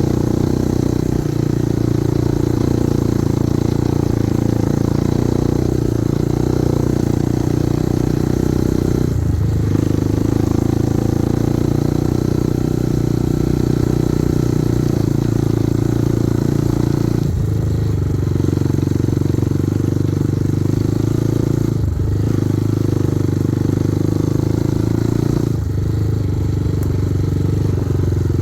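Kovi Advance 250 enduro motorcycle engine running steadily while riding, its note dropping briefly four times as the throttle is eased or a gear is changed.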